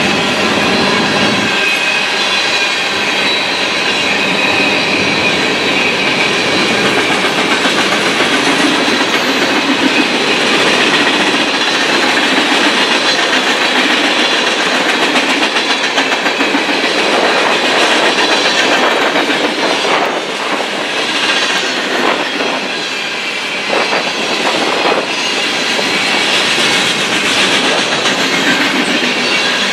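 Freight train of flatcars loaded with green containers rolling steadily past close by: a continuous clatter of steel wheels over rail joints, with thin high squealing tones running over it.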